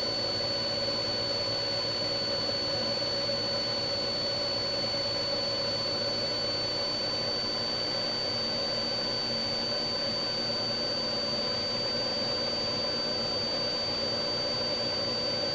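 Police helicopter cabin noise: the turbine's steady high whine and the rotor's drone, unchanging throughout.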